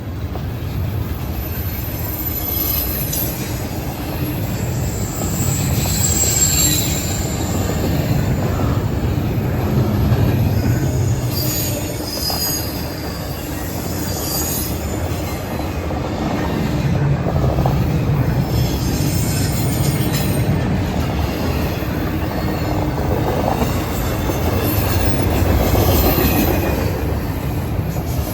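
Norfolk Southern freight train cars rolling past with a steady low rumble, with brief high-pitched wheel squeals several times.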